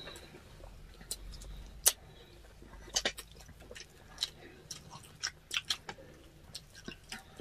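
Close-up eating sounds of salmon-head sinigang being eaten: chewing and lip smacks heard as a run of irregular sharp clicks, the loudest one just before two seconds in and a quick cluster at about three seconds.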